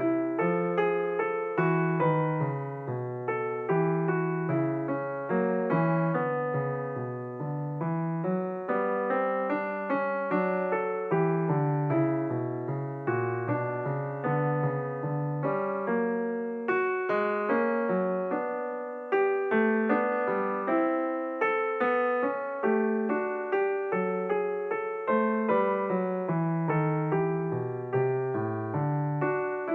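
Background piano music: a continuous run of struck notes and chords, each ringing and fading.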